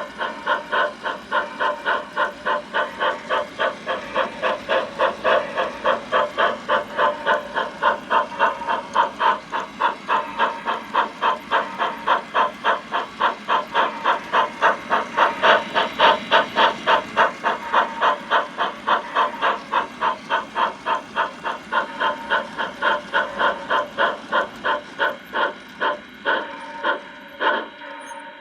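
Recorded steam chuffing from a Bachmann 4-6-0 model steam locomotive's sound system, at about four chuffs a second with a hiss. The chuffs slow near the end and stop as the locomotive comes to a halt.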